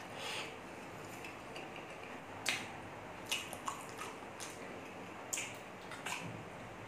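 Close-up wet chewing and lip-smacking of a mouthful of pork caldereta and rice, with a few separate sharp smacks. Near the end, a sip from a glass of juice.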